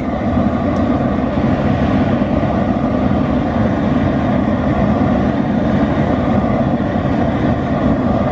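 Propane burner running at a high flame under a sap pot: a loud, steady roar that starts and stops abruptly.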